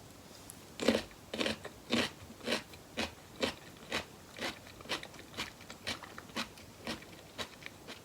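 Close-miked chewing of boneless chicken feet, about two crunchy chews a second. The first chew, about a second in, is the loudest, and the chewing stops just before the end.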